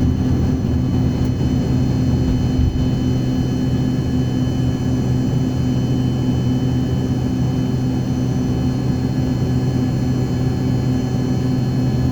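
Steady drone of an airliner in flight, heard from inside the cabin, with a low, even hum throughout.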